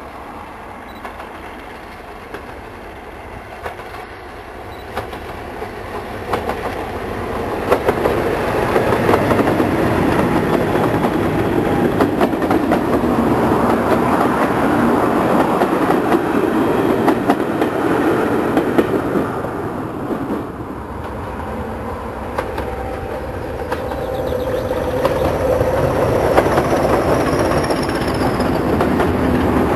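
Diesel-hauled passenger train passing at line speed. The sound grows from about six seconds in as the train comes closer, then the coach wheels clickety-clack over the rail joints. It swells again near the end as a second locomotive at the rear goes by with a steady engine tone.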